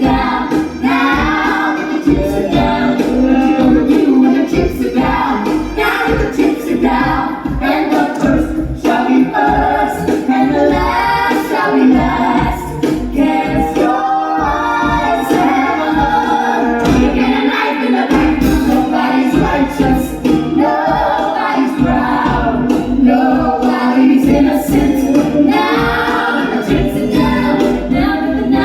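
Stage-musical number: several voices singing together in harmony over instrumental accompaniment, with no clear pauses.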